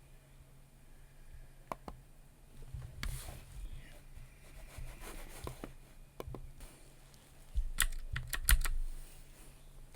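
Typing on a computer keyboard: scattered, irregular keystrokes, with a quick run of louder strokes a little before the end.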